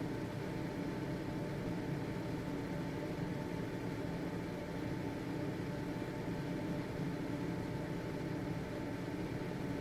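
Household exhaust fan running steadily: an even whir of motor and airflow with a faint steady hum.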